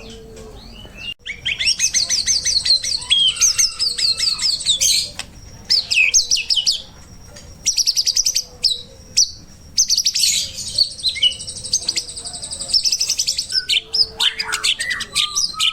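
White-rumped shama (murai batu) singing a varied song of fast trills and sharp chirps, delivered in several bursts with short pauses between them.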